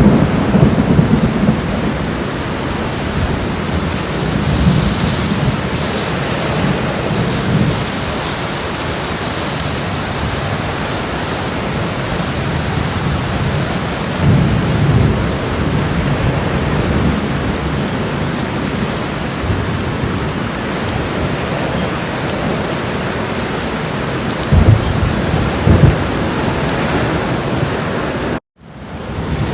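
Made-up thunderstorm sound effects: steady rain with several low rumbles of thunder swelling and fading. Near the end the sound cuts out suddenly for a moment and fades back in.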